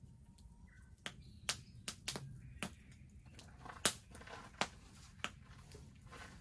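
Wood bonfire crackling, with sharp irregular pops about eight or nine times, the loudest about four seconds in. Faint bird chirps sound in the background.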